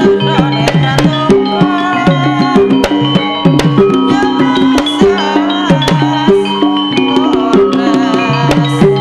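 Javanese gamelan music accompanying a lengger dance. Kendang hand drums play quick, repeated strokes that slide down in pitch, over steady ringing metallophone notes and a wavering melody line.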